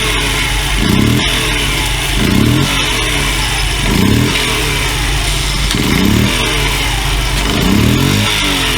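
Honda Monkey AB27's 49cc four-stroke single-cylinder engine running, its throttle blipped about five times, each rev rising in pitch and dropping back to idle.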